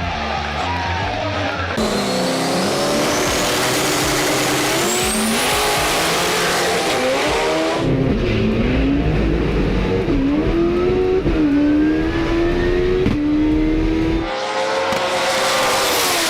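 Drag race car engines at high revs, pitch climbing and then dropping again and again as each car shifts up through its gears, in several short clips cut one after another.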